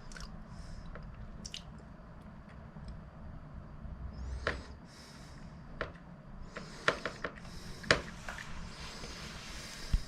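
Computer keyboard keys clicking a few separate times over a low steady hum, with several soft breathy hisses in between.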